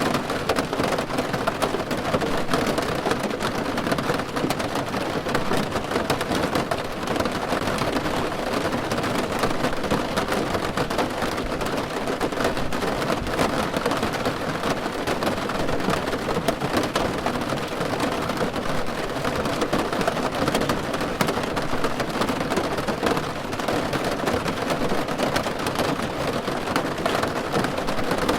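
Steady rain falling on a car's roof: a dense, even patter of countless drop impacts.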